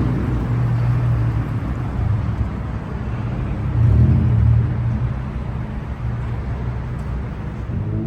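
Car engine running with a low, steady exhaust rumble that swells louder about four seconds in.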